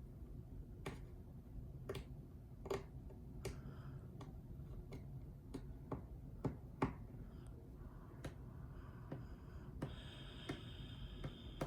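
Faint, irregular sharp clicks and taps, roughly one a second, over a steady low hum. Near the end comes a high-pitched tone lasting about a second and a half.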